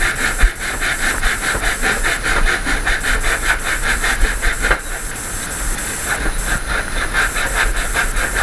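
Rhythmic rasping of a woodworking tool on wood, several quick strokes a second, easing a little about five seconds in.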